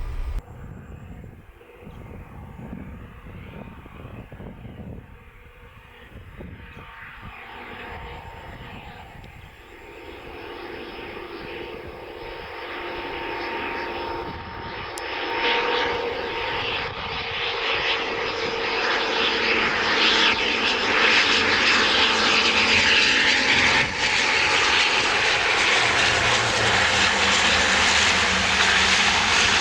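Jet airliner's turbofan engines growing steadily louder as the aircraft approaches, with a high whine over the noise. The sound is loud and steady for the last ten seconds or so.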